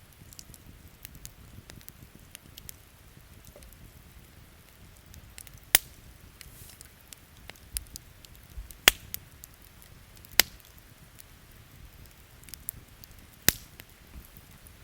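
Wood campfire crackling, with four loud sharp pops spread through it over a faint steady hiss of rain.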